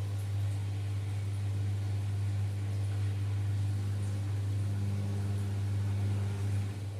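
LG F10B8MD front-loading washing machine on its final spin cycle, giving a steady low hum with fainter overtones and a light hiss. There is no banging or bearing rumble: the uploader takes this as the sign of a healthy machine with sound bearings.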